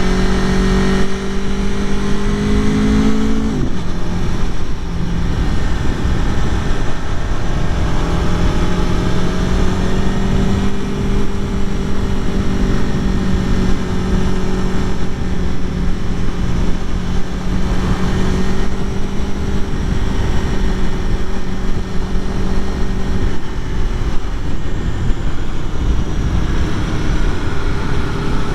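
2021 Aprilia Tuono V4 Factory's V4 engine running under way. The pitch drops suddenly about three and a half seconds in, then holds a steady cruising note over loud wind rush.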